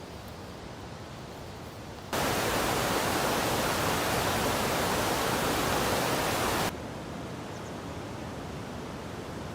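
Steady hiss of rain. About two seconds in, a much louder, even rush of rain starts abruptly and cuts off just as abruptly a few seconds later.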